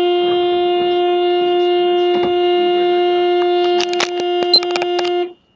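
Car horn held down in one long, steady, loud note, cut off sharply near the end. A few sharp knocks sound about four seconds in.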